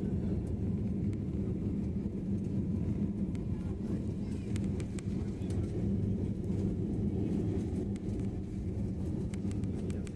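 Steady low rumble of an airliner's engines and airflow heard inside the cabin during takeoff, with a few faint ticks or rattles over it.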